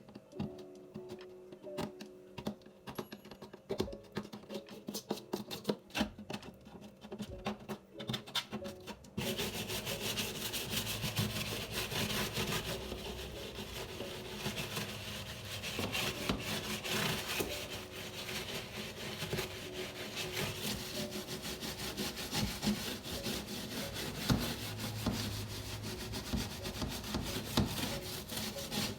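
Scattered light clicks and knocks of things being handled, then about nine seconds in a continuous scrubbing starts and keeps going, as surfaces are scrubbed during fridge cleaning. Soft background music runs underneath.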